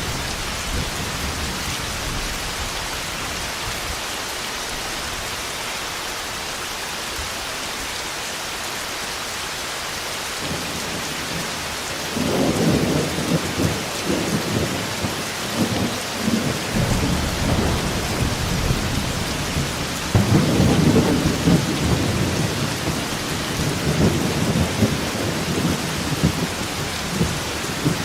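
Steady heavy rain falling in a thunderstorm, with rolls of thunder rumbling in from about halfway through and a second, louder roll a little later.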